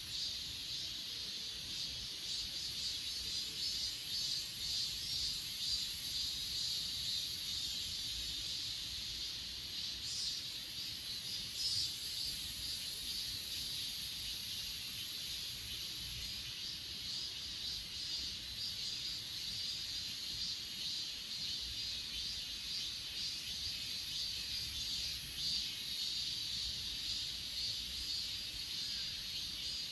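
Chorus of grass insects chirping steadily in two high-pitched layers, one shrill and one higher still, with fast pulsing in the calls.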